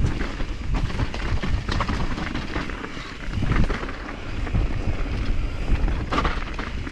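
Mountain bike riding over a dirt trail: tyres rumbling over the ground with frequent small knocks and rattles from bumps, and wind buffeting the action-camera microphone.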